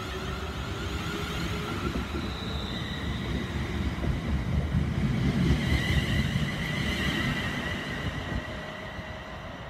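Class 350 Desiro electric multiple unit passing at speed: the wheels rumble on the track under a steady high whine. The sound is loudest about halfway through and fades as the train draws away near the end.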